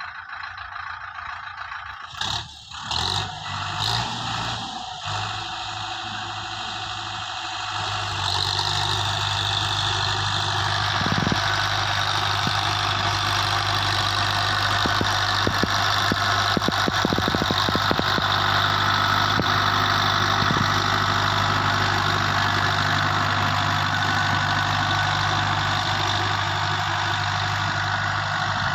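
Kartar 5936 4x4 tractor's diesel engine, with a few short surges in the first few seconds. From about eight seconds in it runs louder and steady.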